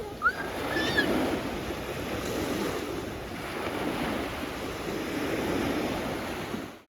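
Sea waves washing on the shore, a steady surf noise that swells and eases, with two short high rising calls in the first second or so. The sound cuts off suddenly near the end.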